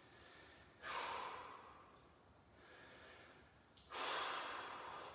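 A man breathing audibly: two slow, breathy breaths, one about a second in and one near the end.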